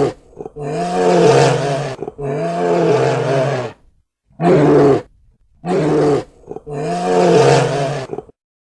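A large animal's calls, repeated about six times, each a pitched, drawn-out call of half a second to a second and a half, with short silences between them.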